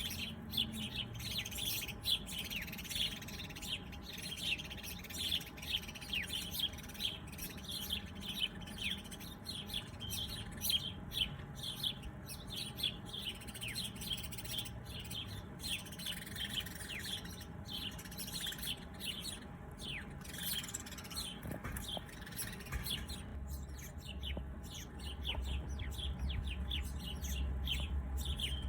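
Several songbirds chirping and twittering in quick, overlapping calls, thinning out in the last few seconds. A low rumble comes up beneath them late on.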